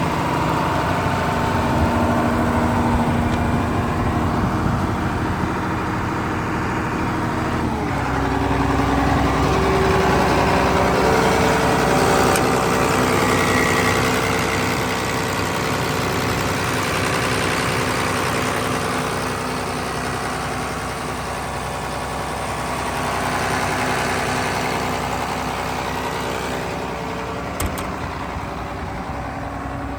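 Diesel engine of a Caterpillar M322C wheeled material handler running steadily. Its speed and loudness pick up about eight seconds in and ease back near the end.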